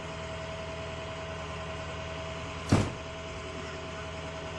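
Vehicle engine idling steadily, with a single loud thump a little under three seconds in.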